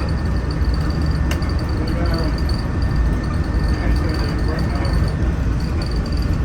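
Walt Disney World monorail train running, a steady low rumble heard from inside the car, with faint voices in the background and a single click about a second in.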